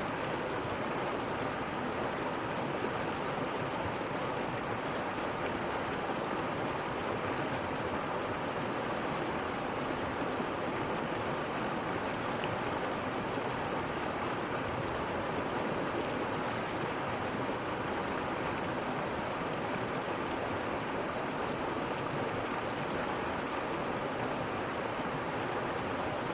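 Waterfall: water falling and rushing in a steady, even roar with no change throughout.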